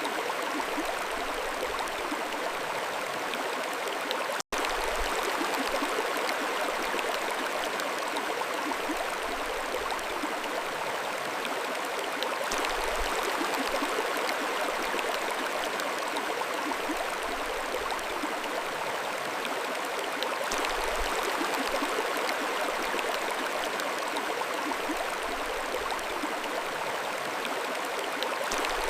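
Mountain stream flowing steadily over rocks, an even rushing and babbling of water. The sound drops out for an instant about four and a half seconds in.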